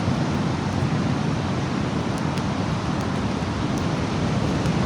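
Strong wind buffeting the microphone, a steady low noise, with surf on the beach behind it.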